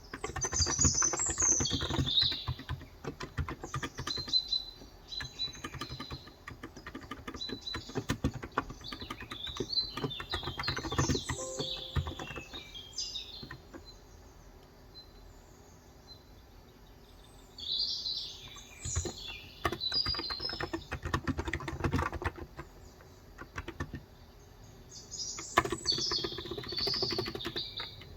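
Fast typing on a Cox Endeavor electro-capacitive (Topre-style) tenkeyless keyboard with light 35 g keys, in runs of rapid key clicks broken by short pauses. Small birds chirp and sing throughout.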